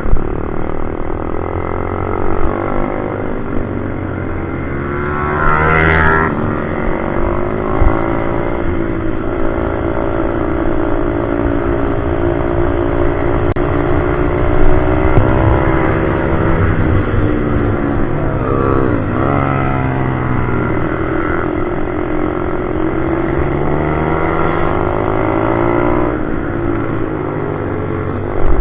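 Pit bike engine revving hard, its pitch climbing and dropping every few seconds as the bike accelerates, shifts and slows on the track.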